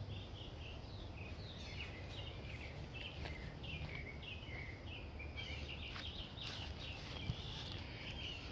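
Outdoor birds chirping over and over, a run of short falling calls, over a faint steady low rumble.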